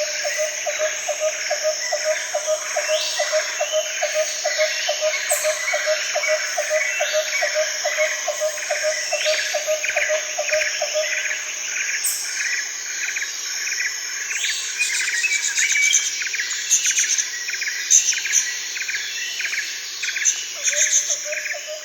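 Tropical rainforest chorus of insects and birds: a steady high insect buzz under many repeated chirping calls. A lower pulsing note repeats a few times a second, stops about halfway through and returns near the end.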